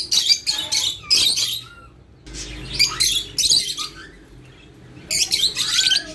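Small birds chirping in three bursts of rapid high chirps, with short pauses between them.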